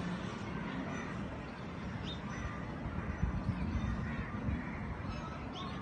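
Birds calling, with a few short calls over a steady background rumble.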